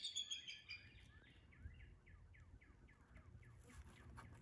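Wild songbirds calling: a quick burst of high chirps at the start, then a faint run of short, falling notes repeated about four times a second that fades out after about three seconds.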